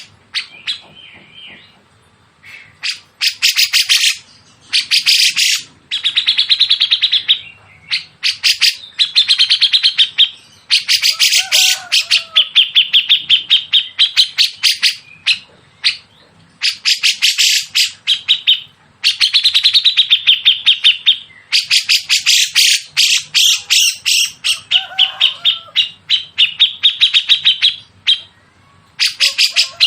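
Songbirds calling in harsh, very rapid strings of sharp notes, in loud bursts of one to three seconds with short gaps between them, the fast chattering 'nembak' phrases of a masteran tutor recording. A few lower, curved whistled notes come in between the bursts.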